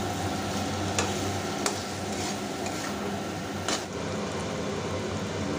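Pigeon meat and ground spices frying in a metal kadai, a steady sizzle, while a flat metal spatula stirs and scrapes through it, knocking sharply against the pan three times.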